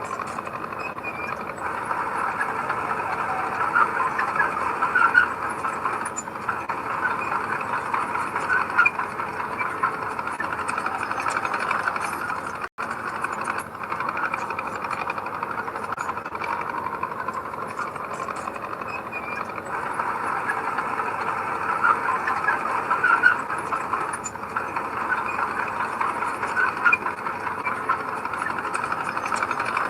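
Heavy earthmoving machinery working: a steady diesel engine sound with scattered squeaks, cutting out for an instant about 13 seconds in.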